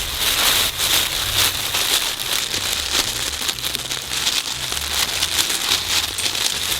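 Puppies rustling and crinkling as they play and chew, a continuous crackle of many small clicks over a steady high hiss.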